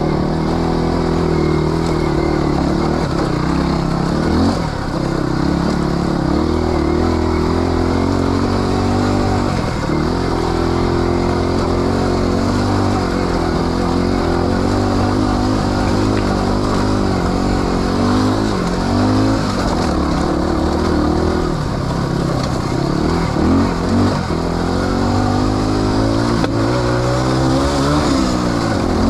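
Off-road motorcycle engine running on a technical trail under constantly changing throttle, its revs rising and dipping every few seconds.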